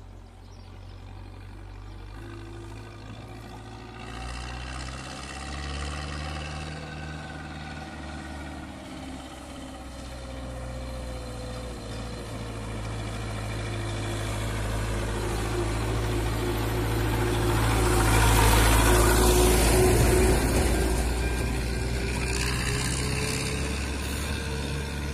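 Passenger train approaching and passing over the level crossing: a steady engine sound with a slowly shifting whine that swells over the whole stretch, is loudest about eighteen to twenty seconds in, then begins to fade.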